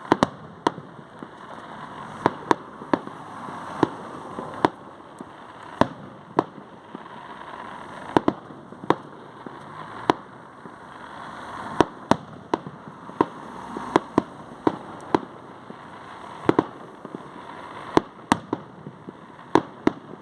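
Fireworks going off: many sharp bangs at irregular intervals, roughly one or two a second, over a steady hiss.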